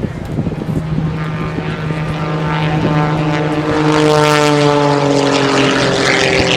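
Propeller airplane flying past, its engine drone growing louder to a peak about four seconds in, then dropping in pitch as it passes. A steady low hum runs underneath.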